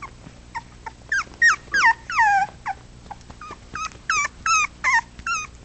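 Four-week-old puppies whining and yelping: many short high-pitched cries, each sliding down in pitch, coming in quick clusters.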